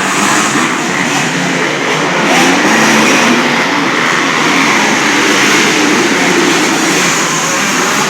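Motocross motorcycle engines running and revving, a loud steady blend of engine noise without a break.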